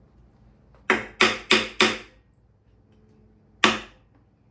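Hammer striking metal on the engine: four quick blows about a third of a second apart, then a single blow near the end, each ringing briefly.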